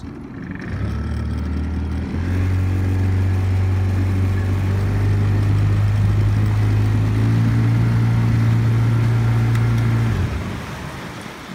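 Small tiller outboard motor throttling up in two steps, running steadily at speed, then cutting out abruptly about ten seconds in as its kill cord is pulled. Afterwards only the hiss of water and wind as the boat coasts, fading.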